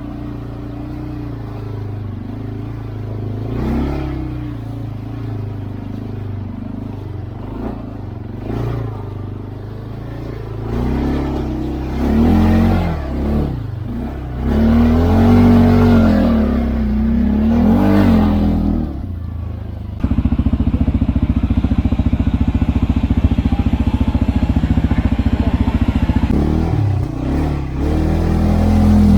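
CFMoto CForce 520L ATV's single-cylinder engine running under way, its pitch rising and falling as the throttle is worked. About two-thirds through, the sound turns suddenly louder and rougher and stays that way.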